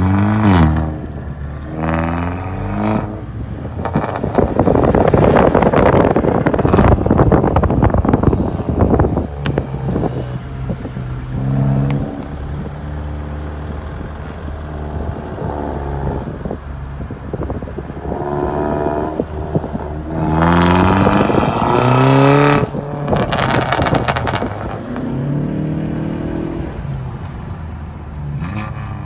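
Renault Mégane IV GT 205's 1.6-litre turbocharged four-cylinder exhaust under repeated acceleration, the revs climbing in several pulls with drops between them as it shifts gear. About four seconds in, a loud rushing noise lasts for several seconds.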